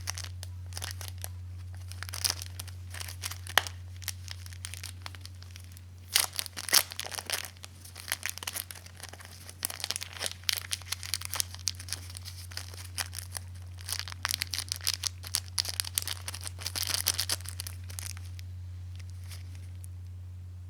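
Hands handling small parts and crinkly packaging: irregular clicks, taps and rustles that come in busy spells and die down near the end. The work is on a fuel cock that leaked gasoline, fitting an O-ring in place of its wave washer. A steady low hum runs underneath.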